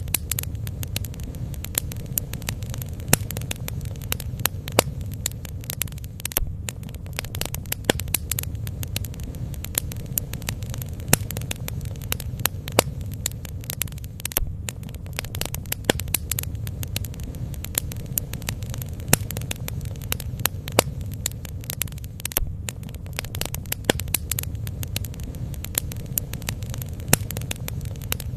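Bonfire of burning wood crackling, with irregular sharp pops several times a second over a steady low rumble.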